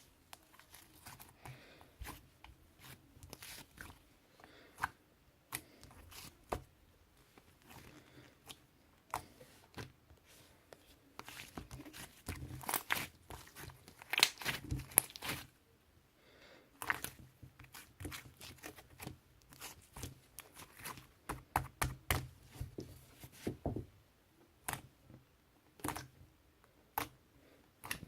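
Slime being squeezed and handled by hand, giving off irregular sharp crackles and pops, thickest in two busy spells partway through.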